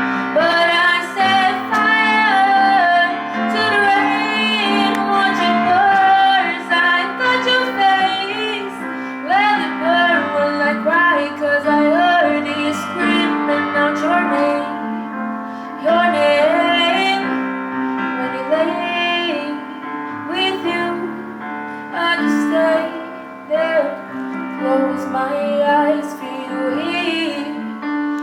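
A woman singing a pop ballad with piano accompaniment.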